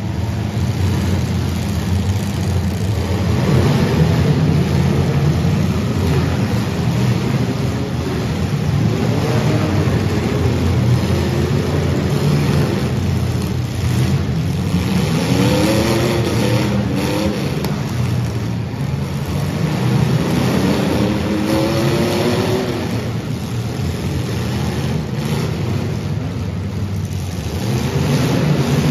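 Compact demolition derby cars' engines running hard, revving up and down again and again over a steady engine din.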